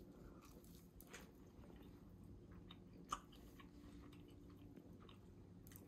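Faint chewing of cheese-filled bread: soft, scattered mouth clicks with one sharper click about three seconds in.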